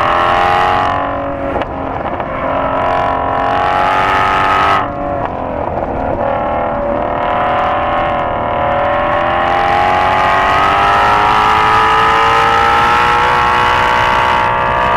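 Shelby GT350's 5.2-litre flat-plane-crank V8 at high revs, heard from inside the cabin. It lifts off the throttle briefly about a second in and again about five seconds in, then makes a long full-throttle pull in third gear, its pitch climbing steadily toward redline.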